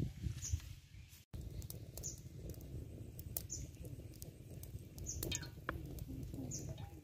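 A bird repeats a short high chirp about every one and a half seconds over a low, uneven rumble.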